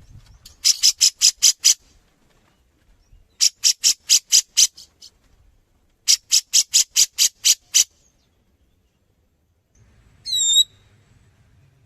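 Grey-cheeked bulbul (cucak jenggot) calling in three bursts of rapid, sharp, high notes at about seven a second, with pauses between. Near the end comes a single short, wavering call.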